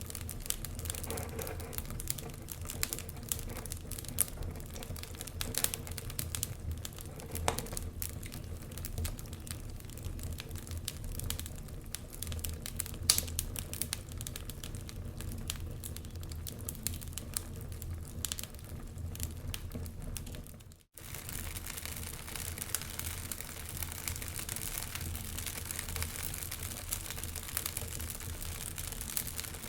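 Wood fire crackling, with irregular sharp pops and snaps over a steady low rumble and hiss. The sound drops out for an instant about 21 seconds in, then carries on with a little more hiss.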